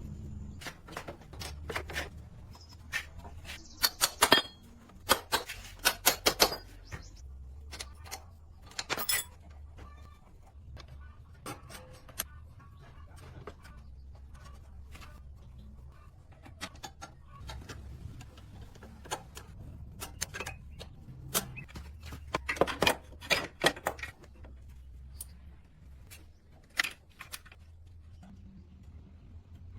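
Irregular clicks and clinks of hard objects being handled, in loose clusters, over a low steady hum.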